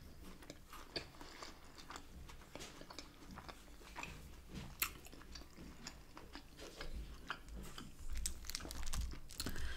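A person chewing food with the mouth closed, with many small wet mouth clicks. Soft low thuds come in near the end.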